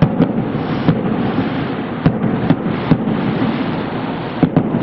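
Fireworks display: aerial shells bursting, about eight sharp bangs in quick irregular succession over a continuous din of further bursts.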